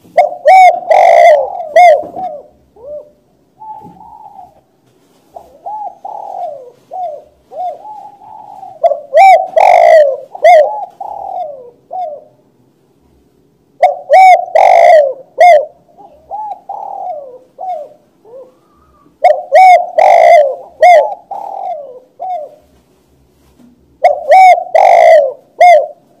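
Spotted dove cooing loudly, repeating its phrase of short coos in bouts about every five seconds.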